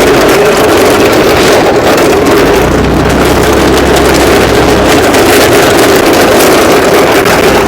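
A vehicle engine running loudly and steadily, with wind buffeting the microphone.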